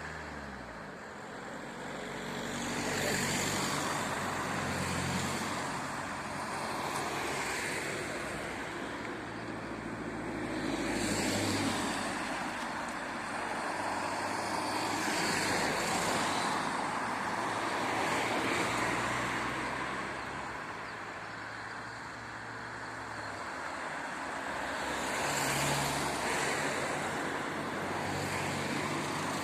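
Road traffic: motor vehicles driving past one after another, each one swelling and fading, with engine hum underneath.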